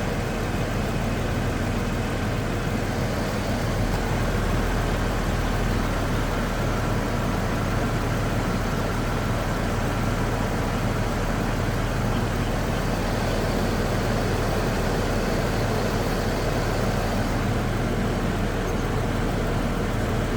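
2008 Saturn Vue's engine idling steadily with the air-conditioning compressor running while the A/C is charged with refrigerant.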